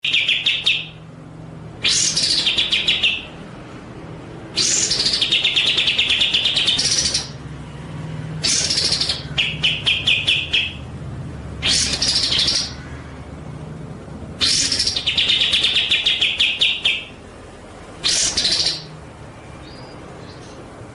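A songbird singing in repeated phrases of rapid, trilled notes, about seven phrases each lasting one to two and a half seconds with short pauses between, over a faint low hum.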